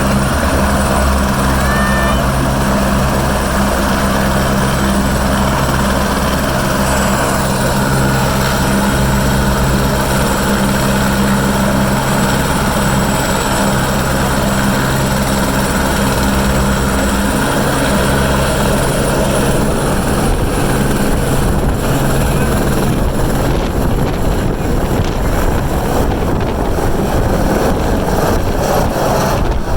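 Helicopter running loud and steady, its turbine and rotor making a constant hum with a high whine. About two-thirds of the way through, the steady tones give way to a rushing, buffeting wind noise on the microphone as the rotor downwash builds.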